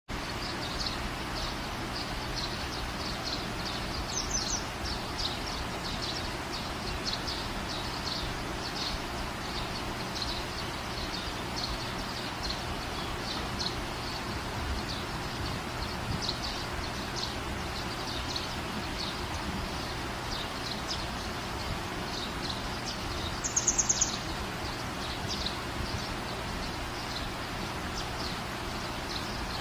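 Birds chirping again and again over a steady outdoor hiss. There is a short, higher call about four seconds in, and a louder quick run of chirps about three-quarters of the way through.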